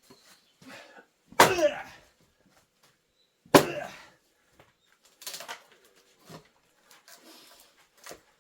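Two hard axe strikes on firewood logs about two seconds apart, each a sharp crack with a short ringing tail as the wood splits, followed by a few lighter knocks of split pieces.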